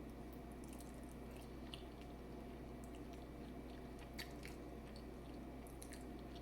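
Faint wet chewing and mouth sounds of someone eating seafood boil, with scattered small clicks and smacks.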